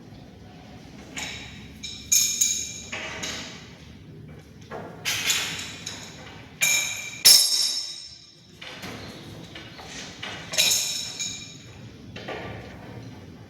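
A series of sharp metallic knocks and clinks, irregularly spaced, each ringing briefly, over a low background hum.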